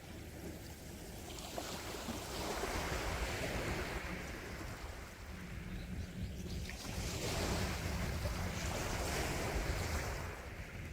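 Sea waves breaking and washing in, two swells of surf a few seconds apart, over a steady low rumble.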